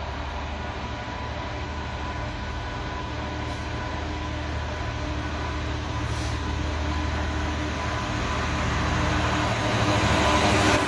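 A train approaching along the station lines, growing steadily louder, with a steady low drone and a thin high whine.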